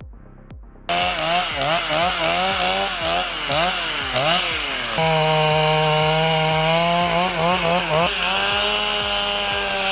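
Chainsaw engine revved up and down in quick blips, then held at a steady high speed.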